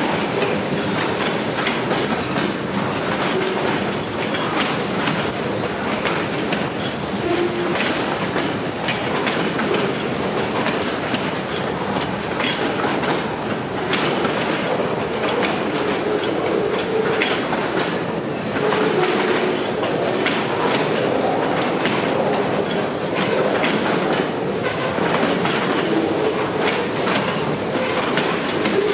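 Freight train cars rolling past, their wheels clicking steadily over rail joints, with now and then a brief faint wheel squeal.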